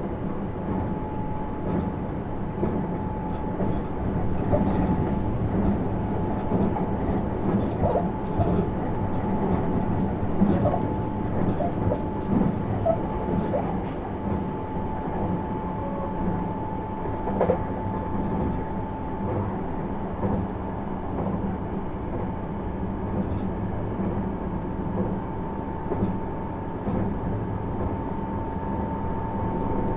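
Interior running sound of a 651 series electric multiple unit: a steady rumble of wheels and underfloor equipment with a constant tone held throughout, and scattered light clicks and knocks.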